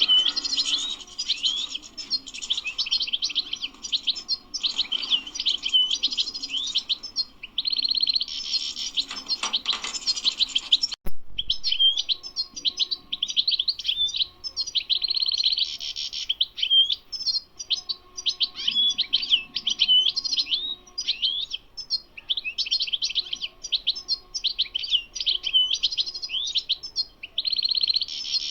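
European goldfinch singing: a continuous rapid twitter of high chirps and trills, broken every several seconds by short buzzy notes. A brief click about eleven seconds in.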